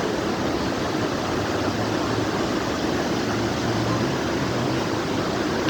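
Steady rushing roar of a large waterfall, the Marmore Falls, falling water filling the sound evenly without a break.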